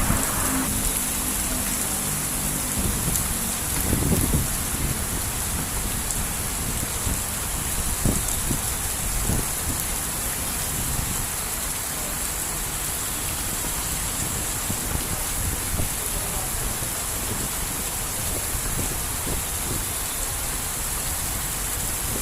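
Heavy rain pouring steadily, with a few low rumbles from the wind gusting, about four and eight seconds in.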